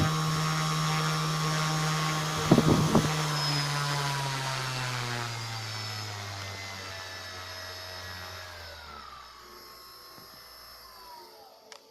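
2212 920KV brushless motor driven by a 30A SimonK ESC, running with a steady whine and then slowing down: its pitch falls gradually over several seconds until it fades out. A few short knocks about two and a half seconds in.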